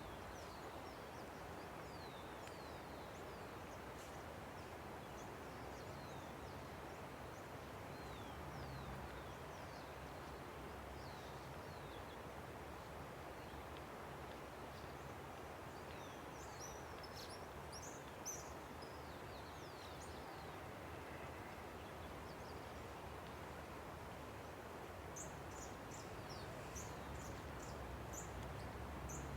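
Steady rush of a river, with small birds chirping and calling over it in quick high sweeps, busier in the second half.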